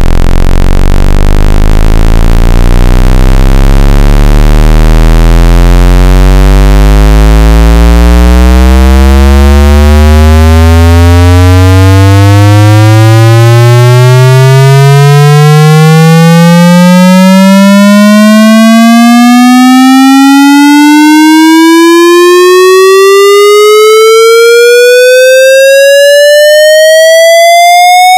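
A very loud, buzzy electronic tone sweeping slowly and steadily upward in pitch, from a deep low drone to a higher whine. It is played as 'the most annoying sound in the world'.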